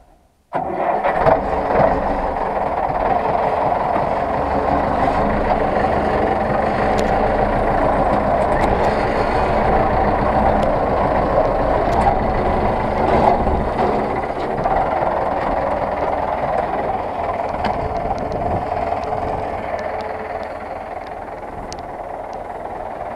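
Zetor 6911 tractor's four-cylinder diesel engine running steadily, with clanks and rattles over it; the sound cuts in abruptly about half a second in and eases slightly near the end.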